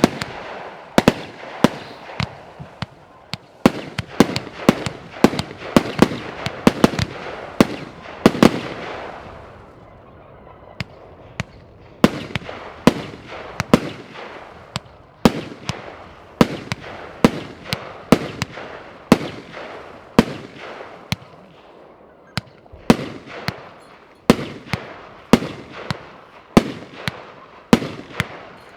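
Nordlicht Feuerwerk 'Der Hooligan' F2 firework battery firing: a long run of sharp shot reports, about one or two a second, each with a short fading tail. There is a brief lull about ten seconds in, then the shots resume.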